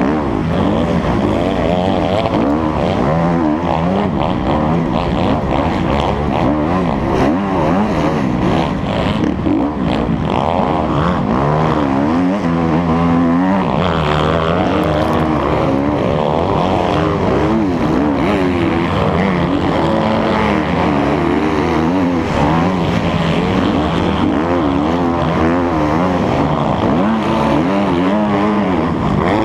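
Motocross bike engine revving hard over and over, its pitch climbing and dropping as the throttle opens and closes.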